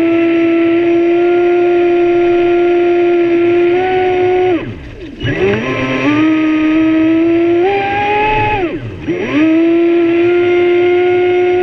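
Traxxas Spartan RC speedboat's brushless electric motor running with a steady high whine. Twice, about four and a half and nine seconds in, the pitch plunges as the throttle is let off, then climbs back as it is opened again.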